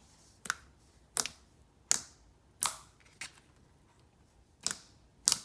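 Glossy mint-chocolate-chip-style slime being pressed and played with by hand, giving about seven sharp, separate clicks spread out at uneven intervals. It is really clicky, a sign that it is a little under-activated: it might need a bit of activator.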